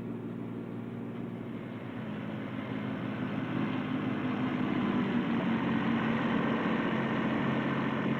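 Ford compact tractor's three-cylinder diesel engine running steadily, growing louder and slightly higher in pitch from about two seconds in.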